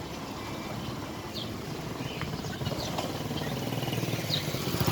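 Scattered short bird chirps over a steady low engine rumble from a passing motor vehicle, which grows louder near the end.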